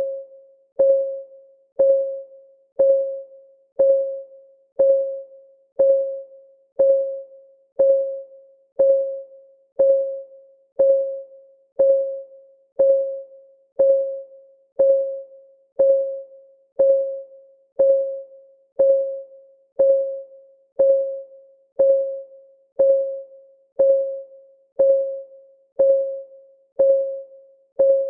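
Clock ticking sound, one tick a second in a steady, even rhythm. Each tick is a short click with a mid-pitched ring that dies away quickly.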